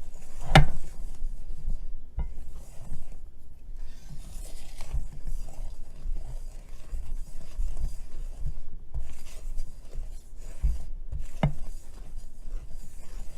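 Dry baking ingredients (flour, sugar, cocoa powder) being stirred in a mixing bowl: a steady scraping and rubbing of the utensil against the bowl, with a few sharp knocks of the utensil on the bowl's side.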